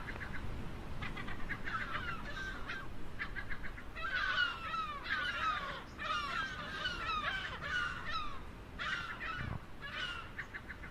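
A flock of gulls calling: many harsh calls that fall in pitch, overlapping, thickest in the middle, over a low rumble.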